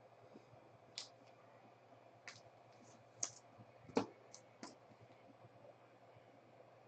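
A handful of sharp, scattered clicks and taps, the loudest two about three and four seconds in, from trading cards and their plastic holders being handled on a table.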